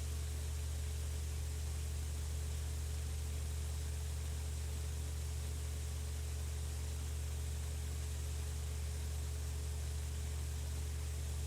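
Electric fan running steadily: a strong low hum with a thin steady tone above it and an even airy hiss.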